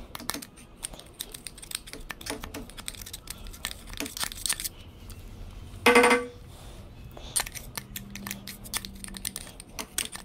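Rapid small clicks, taps and scrapes of metal tools working inside a corroded Mag-Lite flashlight tube to free the last stuck battery, with one louder, short ringing sound about six seconds in.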